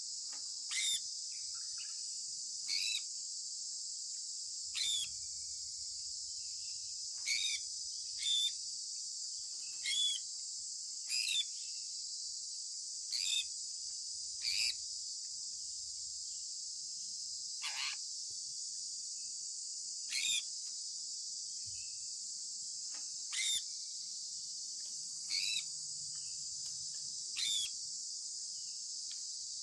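Sun conure giving short chirps, each falling in pitch, about one every two seconds, over a steady high-pitched drone.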